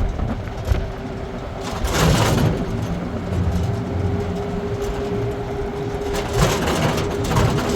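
A vehicle running: a steady low rumble with a constant hum, and two louder swells of noise, one about two seconds in and one near the end.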